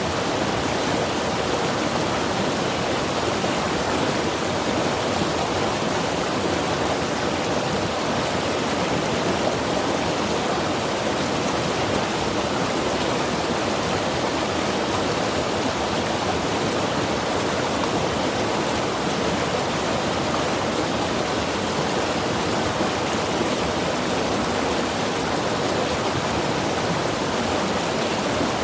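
Mountain river rushing steadily over rocks, a constant full wash of water with no breaks or changes.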